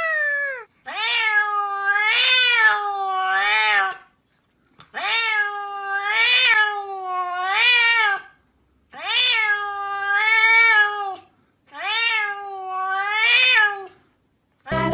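A cat giving a string of long, drawn-out meows, each lasting one to three seconds with a wavering pitch, about five in a row with short pauses between.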